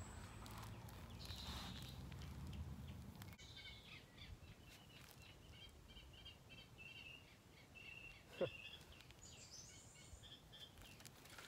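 Faint birdsong, a long run of short chirping notes, over quiet riverside ambience. A low rumble fills the first few seconds, and a single soft knock comes about eight seconds in.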